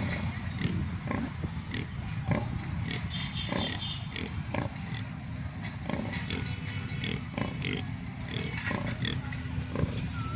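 A group of pigs grunting, with many short overlapping grunts and a few higher squeals.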